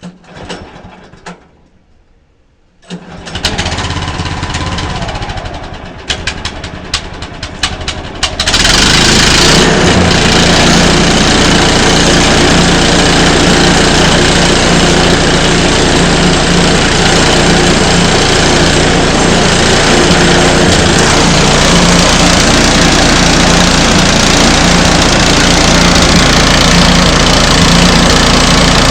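Sawmill engine starting about three seconds in, running lightly for a few seconds, then coming up to a loud, steady full-power run from about eight seconds in.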